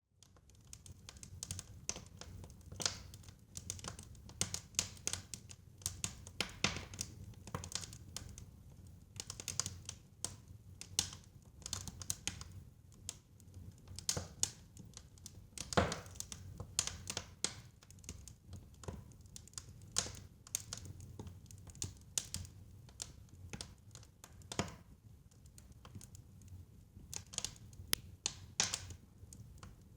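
Fire in a fireplace crackling: irregular sharp pops and snaps of varying strength over a low steady rumble.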